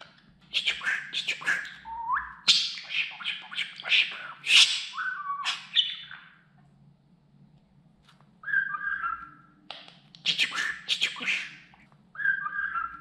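Budgerigar chattering and warbling in quick runs of clicks, squeaks and gliding notes, with a pause of about two seconds midway.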